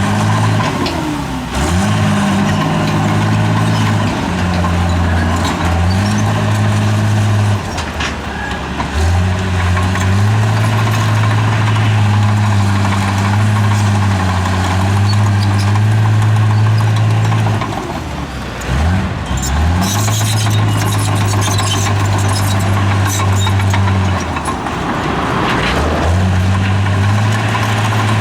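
Heavy diesel engine of a bulldozer running steadily, its pitch dipping briefly and recovering about four times.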